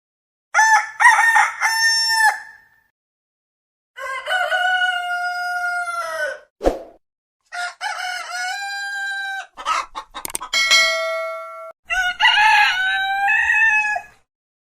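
Roosters crowing: about five separate crows cut one after another, with brief silent gaps between them. Some crows end in a falling note, and one holds a steady tone near its end. A single sharp click comes between two crows.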